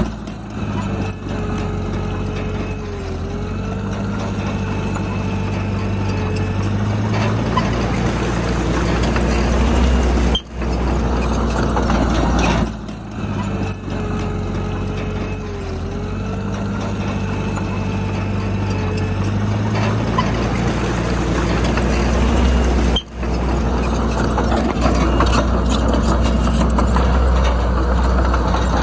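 Heavy diesel engine of earthmoving machinery running steadily under load, its pitch shifting now and then, with short high hissing squeals near the start and again about halfway through. The sound drops out briefly twice.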